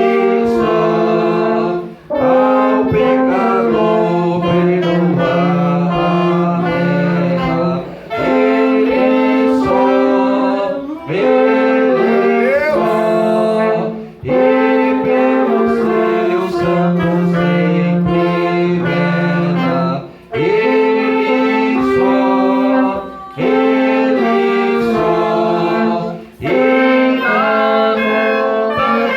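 A church band of wind instruments playing a hymn in held, sustained notes. It plays in phrases a few seconds long, with a short breath-break between each.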